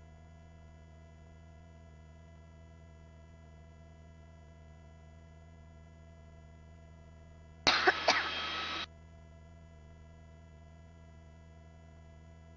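Steady low hum of a helicopter headset intercom feed, with a single short cough-like burst through the intercom microphone about eight seconds in.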